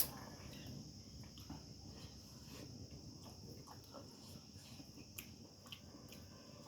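A steady high-pitched chirring of crickets, with faint, scattered clicks of eating by hand and a single sharp click right at the start.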